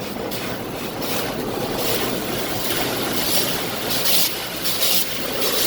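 Automatic car wash's spinning brushes and water spray sweeping over the car, heard from inside the cabin as a steady wash of water noise with repeated swishes from about two seconds in.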